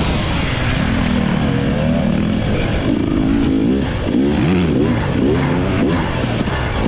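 Dirt bike engine being ridden hard, its pitch repeatedly climbing and dropping with the throttle. The rises and falls come quicker in the second half.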